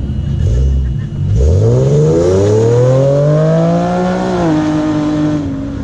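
Sports car engine through an aftermarket exhaust, revved once: a little over a second in, the pitch climbs steadily for about three seconds, then drops back and settles toward idle.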